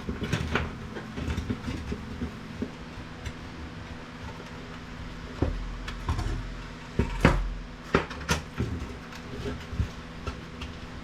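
Scattered clinks and knocks of metal parts and tools being handled while scrap IT equipment is taken apart, the sharpest about seven seconds in. A steady low hum runs underneath.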